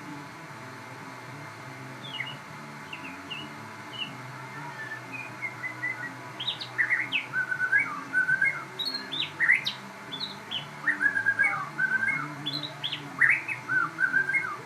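Crossbred murai songbird in full song: soft scattered whistled notes at first, then from about six seconds in loud, rapid phrases of quick rising and falling notes.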